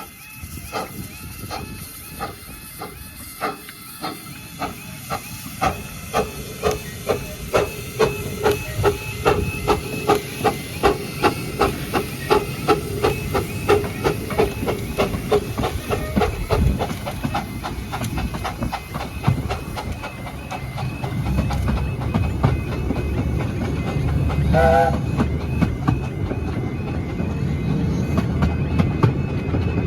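Miniature steam locomotive No.10 Dr Syn pulling away: exhaust chuffs that start slow and quicken steadily as it gathers speed, with steam hiss. About five seconds before the end a short whistle toot sounds, and a low rumble of the train's wheels builds as the coaches run by.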